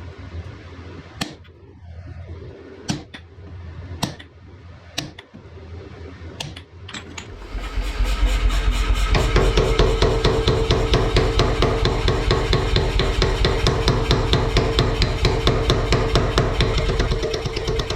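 Hammer blows on hot wrought iron, struck about once a second. About seven seconds in, a much louder, rapid, even pounding with a steady hum takes over.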